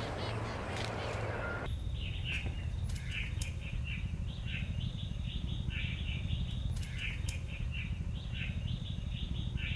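Birds chirping in many short, repeated calls over a steady low rumble. A broad hiss before them stops abruptly about two seconds in.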